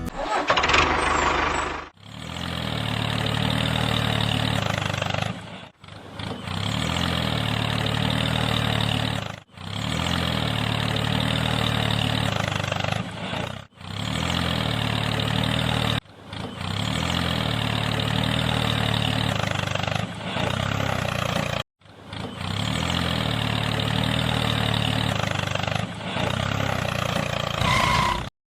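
A small motor running steadily, heard in a run of short cuts a few seconds long, each separated by a brief dropout.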